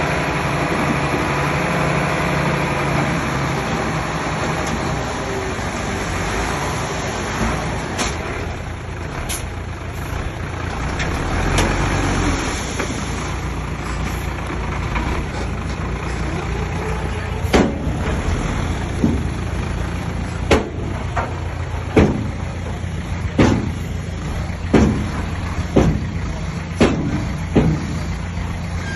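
Komatsu D20P bulldozer's diesel engine running steadily. In the second half, a run of sharp knocks comes about once a second.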